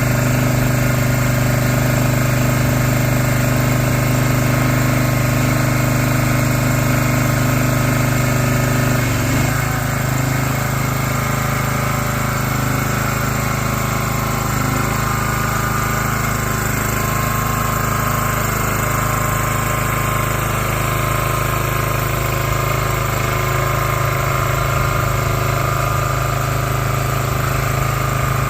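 Engine of a Sungdo engine-driven orchard aerial work platform running steadily, its tone shifting briefly about nine seconds in.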